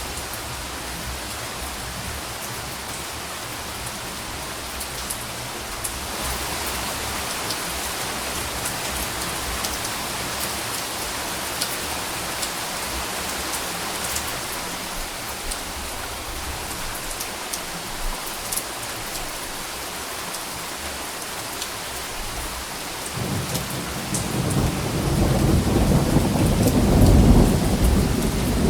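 Steady heavy rain hissing on a surface, with fine drop patter throughout. About three-quarters of the way through, a low roll of thunder begins and grows louder to the end.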